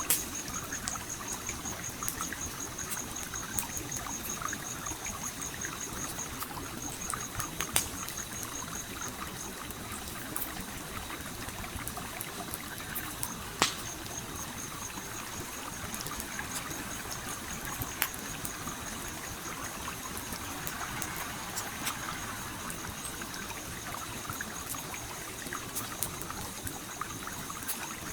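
Stream flowing steadily, with a campfire crackling over it: scattered sharp pops and snaps, a few of them louder.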